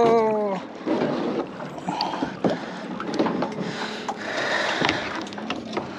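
Water splashing and lapping around a kayak, with scattered short knocks and clatter of gear against the hull.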